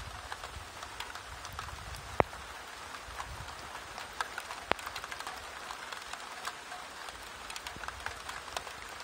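Rain falling on the ground: a steady patter of many small drops, with two louder, sharper drop hits, about two seconds in and again near the fifth second.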